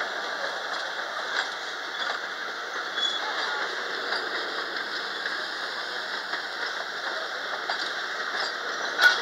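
Railroad passenger coaches rolling past on the track: steady wheel-on-rail noise with scattered clicks, and one sharp clank near the end.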